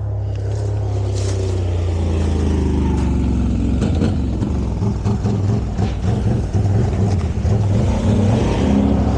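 A motor vehicle's engine running close by and growing louder, its pitch falling over the first few seconds, then running unevenly with a rapid pulsing.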